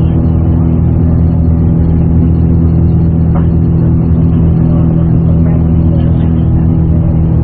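Steady drone of a Boeing 787's engines and airflow heard inside the aircraft, a low hum of several constant tones, during the climb-out after a wind-shear go-around.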